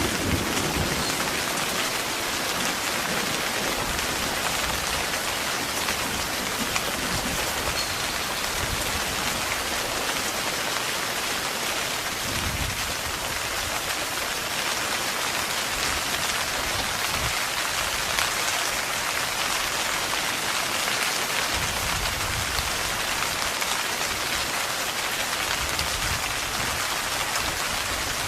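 Heavy rain falling steadily on a tent's fabric.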